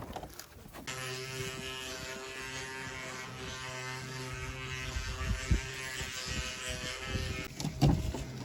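Wooden ox-cart axle singing (the 'canto' of a carro de boi) as the cart rolls: a steady buzzing drone with many even overtones that starts suddenly about a second in and dies away near the end, with a few low knocks in its second half.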